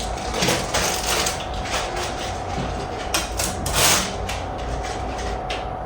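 Irregular clicks, rattles and rustles of a new refrigerator's door and fittings being opened and handled.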